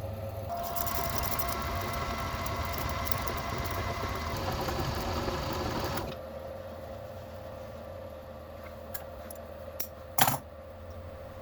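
A small electric motor or power tool runs for about five and a half seconds, then stops suddenly. Light metallic clicks and one sharp tap follow.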